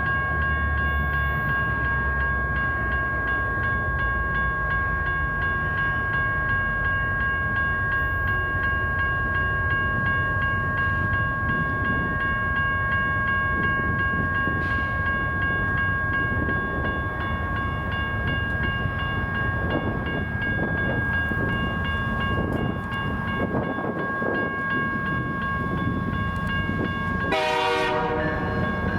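A train running past: a steady low rumble of locomotive and cars, with two steady high tones held throughout.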